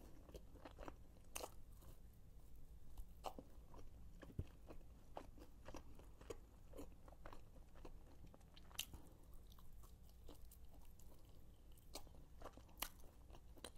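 Faint, close-miked chewing and biting of a sauced barbecue chicken wing: soft crunches and mouth clicks scattered irregularly throughout.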